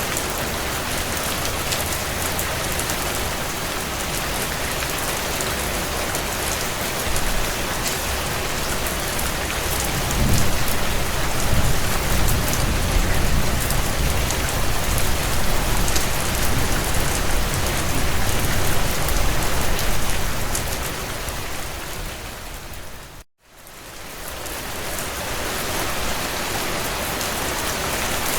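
Steady heavy rain pattering on window panes. A low rumble of thunder rolls under it from about ten seconds in until about twenty. Near the end the whole sound fades to silence for a moment and swells back up.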